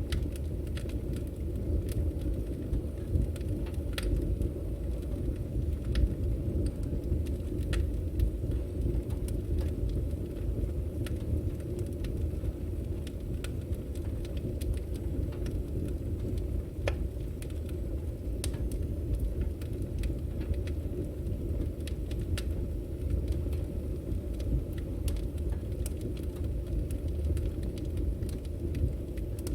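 Firewood burning with a steady low rumble and irregular sharp crackles and pops.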